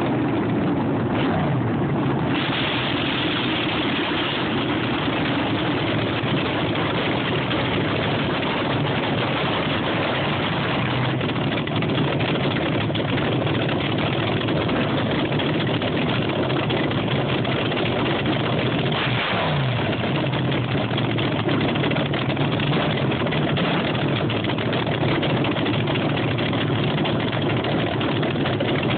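Fuel-injected small-block front-engine dragster running on a little nitro, loud and steady at a rough cackling idle, with a brief drop in pitch near the start and again about two-thirds of the way through.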